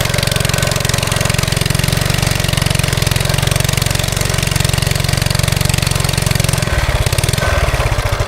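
Briggs & Stratton single-cylinder engine on a mini bike running steadily under throttle. Near the end the firing slows into separate beats as the engine winds down.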